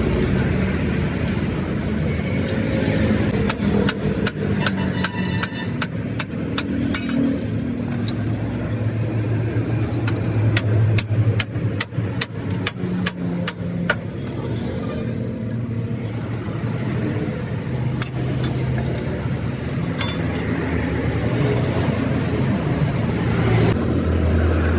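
A motor engine runs steadily with a low hum. Over it come a series of sharp metallic strikes, several a second, from about three seconds in until about halfway through, some of them ringing briefly.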